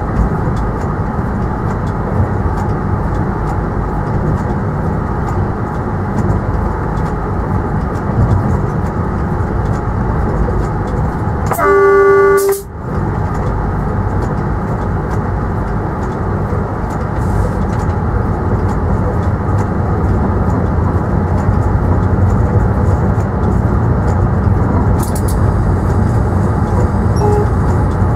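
Steady rumble of a train running on the rails, heard from the driver's cab, with one short horn blast, under a second long, about twelve seconds in.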